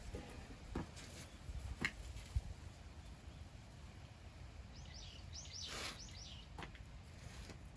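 A small bird calling a quick run of about six high, falling chirps just past the middle, with a brief whoosh at the same time. A few light knocks come earlier.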